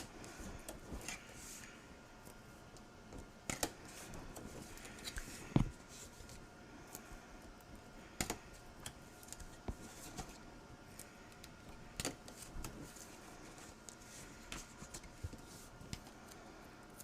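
Scattered light clicks and taps of paper and tape being handled on a craft table, with a louder knock about five and a half seconds in.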